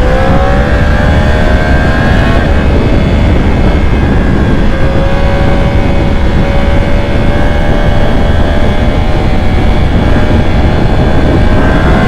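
Motorcycle engine running hard at speed, its pitch climbing for the first couple of seconds and then holding a slowly rising note, under a constant heavy rush of wind.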